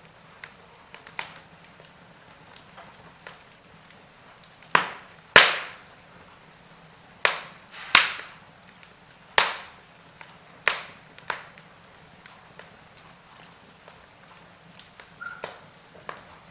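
Wood fire in a fireplace crackling: irregular sharp pops and snaps, a handful of loud ones in the middle stretch, with smaller ticks over a faint hiss.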